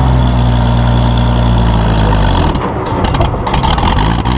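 Oliver 1650 tractor's gasoline six-cylinder engine running steadily under load in sixth gear. About two and a half seconds in it turns rough and uneven, with scattered knocks, as it lugs and needs more throttle.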